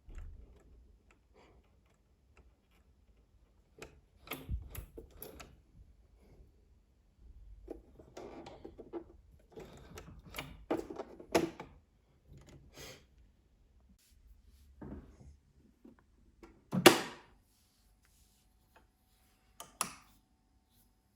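Irregular handling sounds of repair work: scattered clicks, taps and short rubbing scrapes of tools and parts being picked up and set down, with one louder knock about seventeen seconds in.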